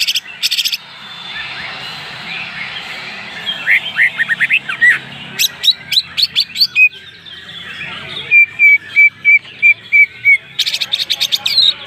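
Green leafbird (cucak ijo) singing a varied song. It starts with harsh rattling bursts, moves into quick downslurred chirps and sharp whistled notes, then a run of evenly spaced notes at about four to five a second, and ends with another harsh rattle.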